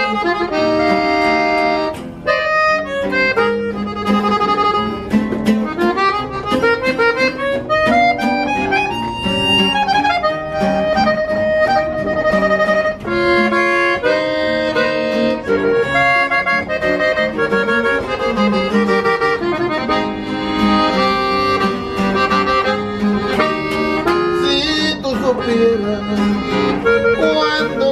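Norteño-style band playing an instrumental break: accordion leading the melody over guitar accompaniment, with no singing.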